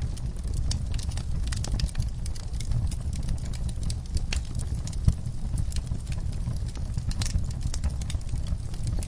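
Wood fire burning in a fireplace: a steady low rumble with irregular crackles and snaps, one louder pop about five seconds in.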